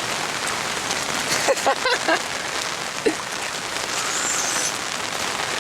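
Rain falling steadily on surfaces, an even hiss throughout. A few short vocal sounds break through about a second and a half in.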